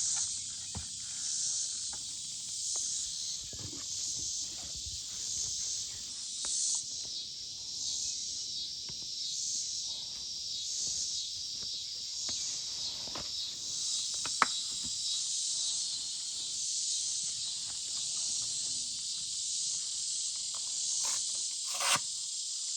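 Insect chorus, a high buzzing hiss that swells in regular pulses about every second and a half, with scattered faint clicks and knocks.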